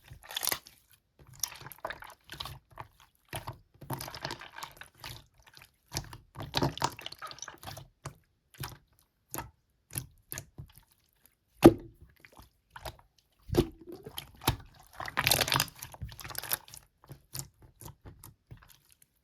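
Slime being squished and pressed by hand, giving wet clicks, pops and crackles in irregular bursts with short pauses between them.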